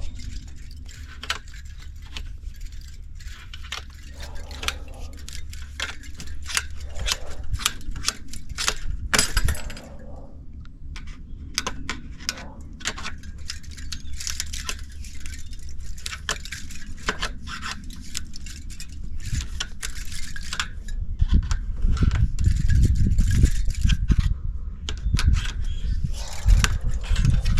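Metal clinking, tapping and scraping as an old air-conditioner condenser is pried apart by hand with a flathead screwdriver, with many sharp clicks and knocks. In the last several seconds a loud low rumbling noise comes in under the clinks.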